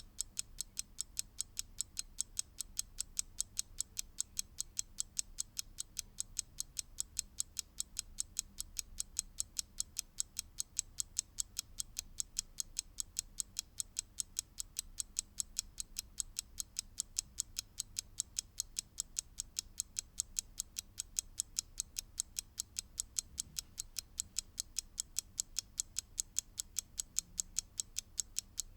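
Mechanical clock ticking in a fast, even rhythm of several crisp ticks a second.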